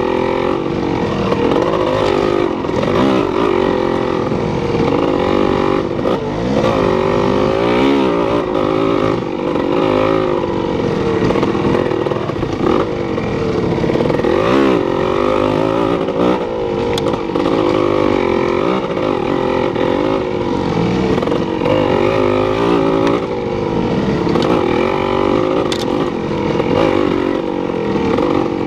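An engine running, its pitch rising and falling every second or two as the speed changes.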